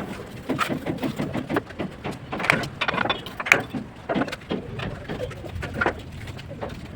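Hand bricklaying work: irregular sharp taps and knocks of tools on brick and mortar.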